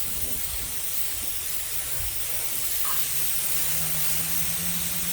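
Portable band sawmill running: a steady hiss, with a low hum that comes in about two seconds in and rises slightly in pitch.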